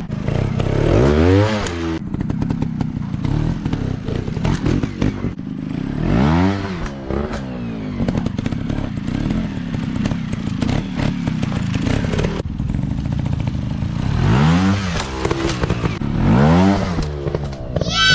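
Dirt bike engine revving in repeated bursts, its pitch climbing and falling back about four times between steady running. A sharp high rev comes at the very end, and rattling and clattering go on throughout.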